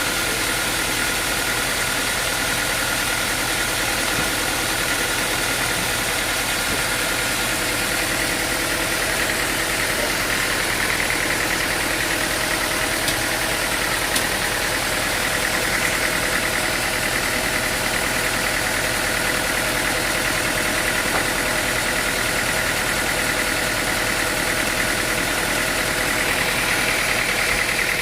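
A machine's engine running steadily at a constant speed, with no changes in load.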